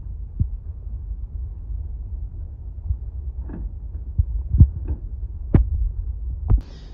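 Low rumble of wind buffeting the microphone, with several dull knocks scattered through it.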